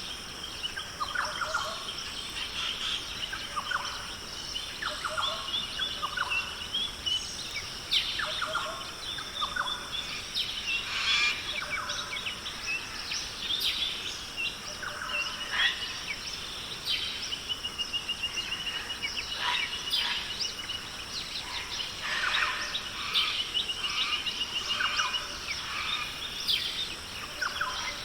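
Several rainforest birds calling over one another: short whistled sweeps and chirps, rapid trilled runs of notes and a few low calls, over a steady high-pitched hiss.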